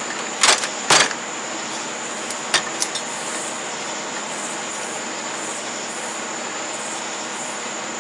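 Steady high-pitched insect trilling, with two sharp knocks about half a second apart near the start and two lighter clicks about two and a half seconds in.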